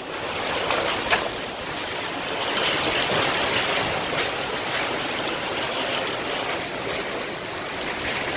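Steady rushing noise of strong storm wind and sea, with a short click about a second in.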